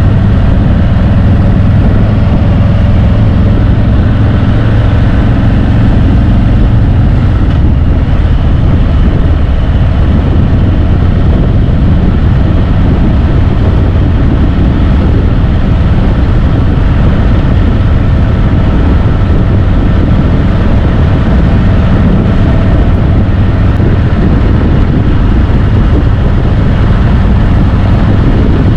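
Harley-Davidson Road Glide's V-twin engine running steadily at a low cruising speed.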